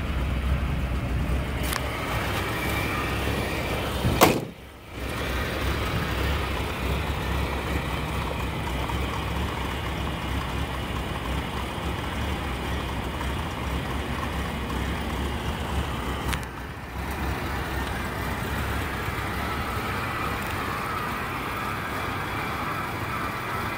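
1971 Toyota Celica ST's inline four-cylinder engine idling steadily, with one sharp thump about four seconds in.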